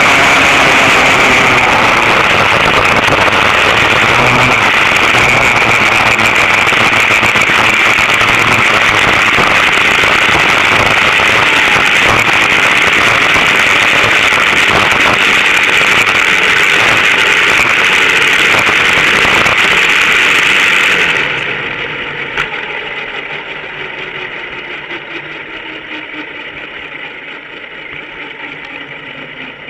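Vintage go-kart's twin rear-mounted two-stroke engines running loud at high revs. About two-thirds of the way through the sound drops away sharply, and the engines wind down at a falling pitch.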